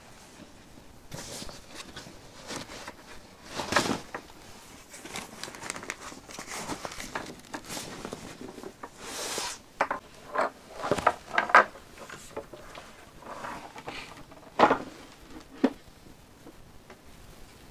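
Irregular rustling and crinkling with a few sharp knocks and clicks, like gear being handled at close range; the loudest knocks come about four seconds in, around eleven seconds and near fifteen seconds.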